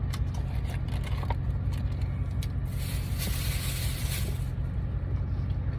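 Steady low engine hum, with a brief hiss about three seconds in and a few light clicks.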